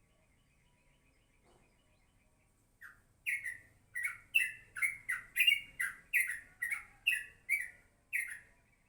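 Yellow-vented bulbul (crucuk) calling: starting about three seconds in, a quick run of about a dozen short, loud chirps, each sliding downward, about two a second.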